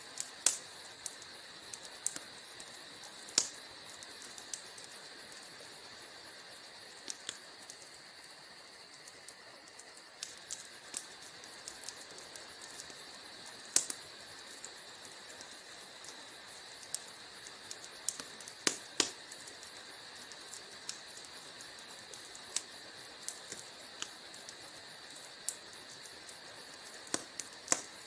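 Wood fire burning in a fireplace: a steady soft hiss with irregular sharp crackles and pops from the burning logs.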